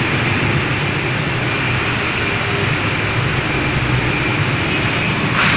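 Steady motor-vehicle running noise: a low hum with a thin high whine over it, and a brief hiss near the end.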